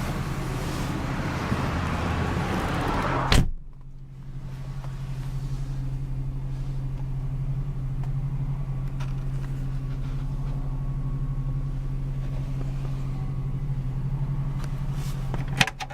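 A car door shuts with one sharp thud about three seconds in, cutting off the open-air noise. After that the 2001 Mercury Cougar's V6 keeps idling as a steady low hum heard from inside the cabin.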